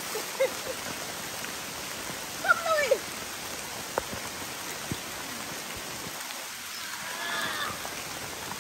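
Steady rain falling on forest foliage, an even hiss, with a brief pitched whine a few seconds in and a couple of soft clicks.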